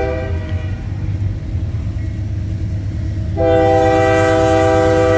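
Freight locomotive's chime air horn sounding for a grade crossing: a multi-note blast ends just after the start, and after a pause of about three seconds a second long blast begins and holds. A steady low rumble of the approaching train runs underneath.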